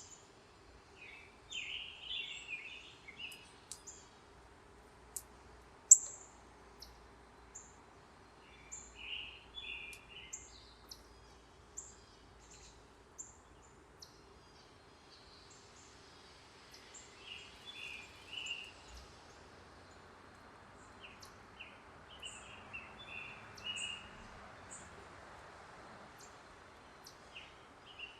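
Wild backyard songbirds calling: scattered short, sharp high chips, the loudest about six seconds in, and several brief bursts of lower chattering calls, over faint steady background noise.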